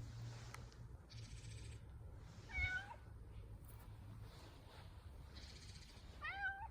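Domestic cat meowing twice: a short call about two and a half seconds in and another near the end.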